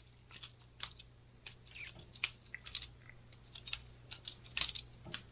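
Boker Plus balisong butterfly knife being flipped by hand: irregular sharp metallic clicks, about three a second, as the handles and blade swing and knock together.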